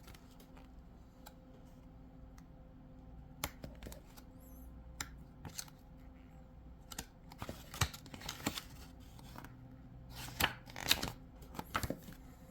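Paper manuals and packing material being handled in a box: scattered rustles and light taps, more frequent in the second half.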